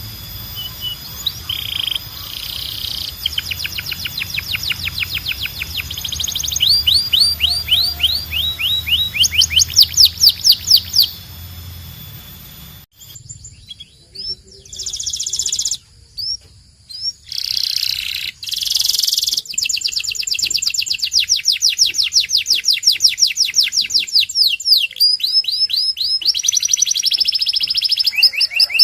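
Domestic canary singing: long, rapid trills of evenly repeated notes, many sweeping up in pitch, switching from one trill type to the next. A low hum under the first half stops abruptly about halfway through.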